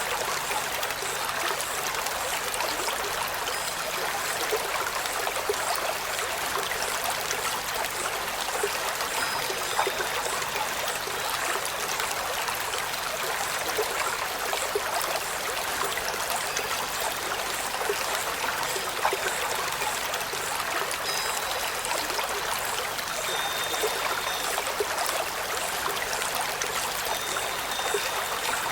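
Steady running stream, an even rushing trickle of water, with a few faint brief high whistled notes over it now and then.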